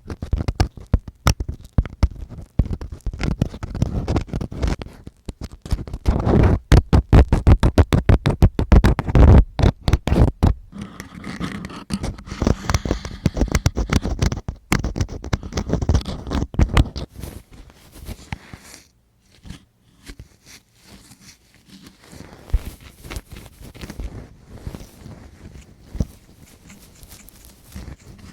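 Close-mic ASMR ear-cleaning sounds: a tool scraping and scratching at a recorder's microphone in quick, dense strokes. They turn softer and lighter after about 17 seconds.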